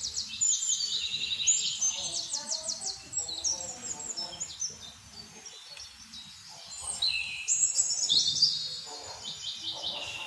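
Songbirds chirping and twittering, several at once, with quick trilled runs of high notes; loudest near the start and again around seven to eight seconds in.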